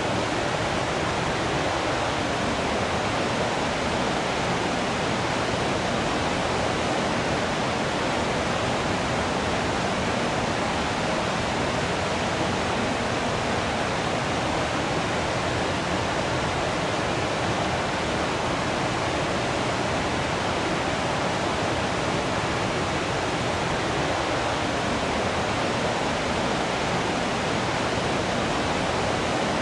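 Waterfall water falling and rushing in a steady, even roar of noise with no breaks.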